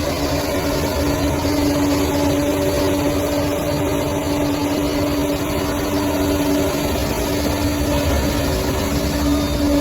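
Bulldozer engine running steadily at an even pitch, with a low rumble under a constant hum.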